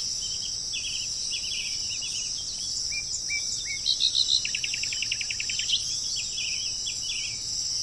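Songbirds calling with short chirps and whistled notes, one breaking into a fast trill about halfway through, over a steady high-pitched drone of insects.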